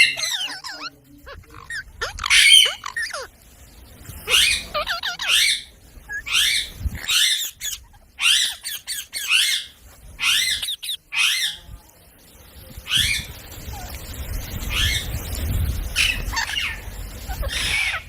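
Pet parrot squawking: a run of short, harsh calls about a second apart, a brief pause, then more calls over a low rumble near the end.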